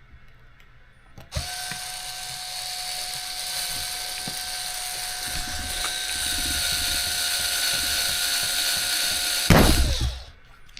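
Small power driver motor running at a steady pitch for about eight seconds while driving a screw. It stops with a knock near the end as the motor winds down.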